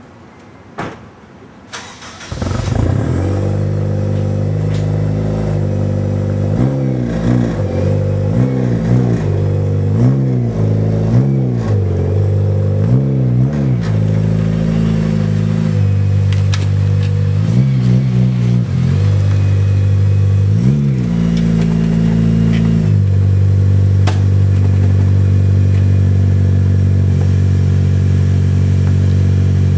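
Turbocharged 2006 Acura RSX Type-S's 2.0-litre four-cylinder engine, breathing through a Skunk2 MegaPower R 76 mm exhaust, starting about two seconds in and idling. It is then revved in a series of short throttle blips, and it settles into a steady idle for the last several seconds.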